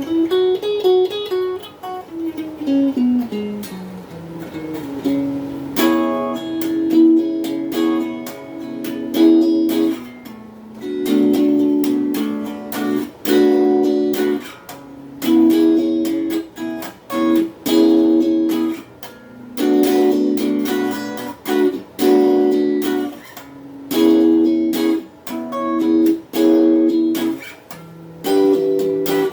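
Donner Q1 HSS Strat-style electric guitar played through a small practice amp. It opens with a descending run of single notes, then about six seconds in switches to short, choppy chords in a steady rhythm.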